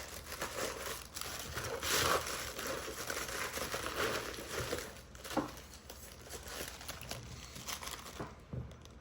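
Packaging crinkling and rustling as wrapped carved stone figurines are unwrapped by hand, with a single knock about five seconds in, and the rustling dies down near the end.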